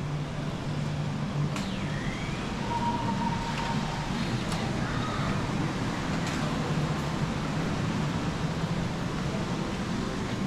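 Urban street ambience: a steady hum and hiss of road traffic, with three sharp clicks and a brief steady high tone about three seconds in.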